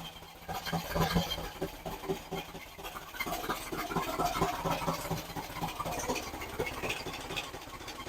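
Freshly rebuilt engine running during its cam break-in, with irregular clicks and knocks over the steady running sound.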